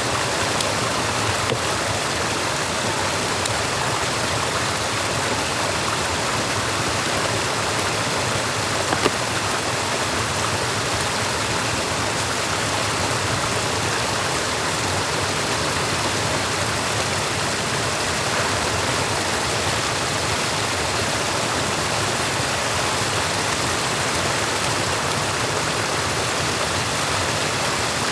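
Stream water rushing steadily at a beaver dam, with one brief knock about nine seconds in.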